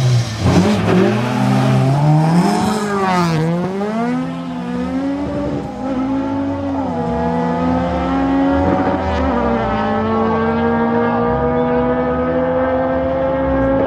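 Heavily modified street-race cars at full throttle: engines revving hard, with the pitch dropping at gear changes in the first few seconds, then one long engine note climbing slowly and steadily as a car pulls hard through a gear.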